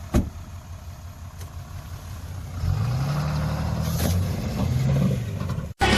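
A single thump just after the start, then a Cummins turbo-diesel Ram 3500 pickup's engine accelerating away. Its pitch rises and falls twice over the last few seconds before cutting off abruptly.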